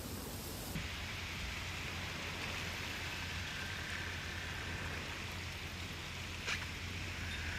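Steady hurricane rain with a constant low rumble, and a single sharp click about six and a half seconds in.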